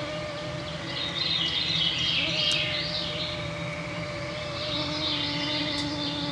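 A steady, close mosquito whine runs throughout, under a songbird that sings two warbling phrases, the first about a second in and the second near the end.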